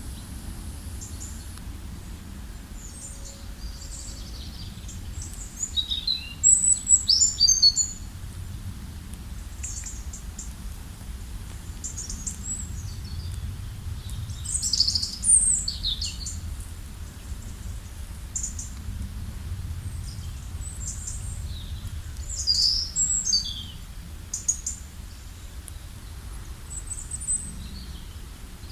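Several wild birds singing and calling in short high chirps, trills and twitters throughout, with louder bursts of song now and then, over a steady low rumble.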